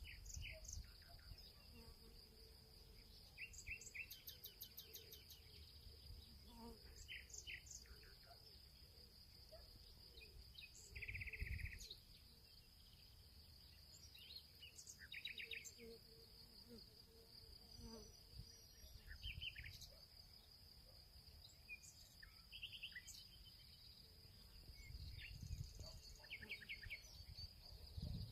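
Field ambience: a steady high insect trill under scattered short bird chirps and rapid little trills, with a low rumble coming and going.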